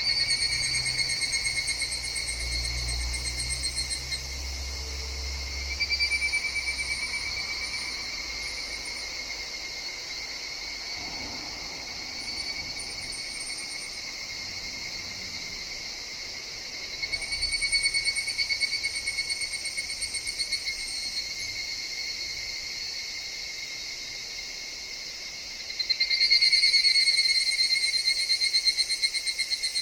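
Higurashi (evening cicadas, Tanna japonensis) calling in the forest: bouts of a rapid, high, pulsing trill lasting a few seconds each, swelling and then fading, about four times, the loudest bout near the end.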